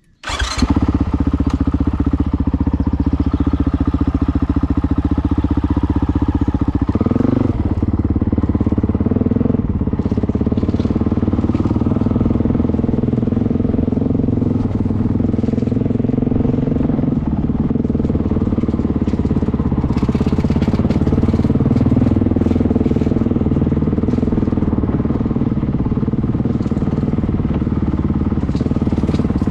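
Honda CRF 450L motorcycle's single-cylinder four-stroke engine starting up just after the beginning, then running steadily, with a change in its note about seven seconds in.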